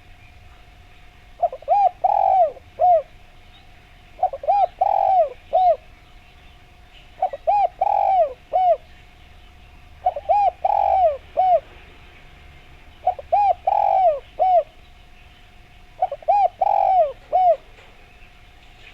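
Spotted dove (derkuku) cooing: six phrases about three seconds apart, each a quick run of several short coos.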